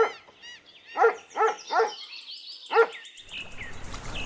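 Dog barking: about five short, high-pitched barks in the first three seconds.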